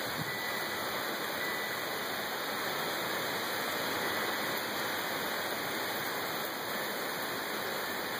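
Heavy rain falling steadily in a thunderstorm, an even rushing hiss. Faint wind-chime tones ring now and then.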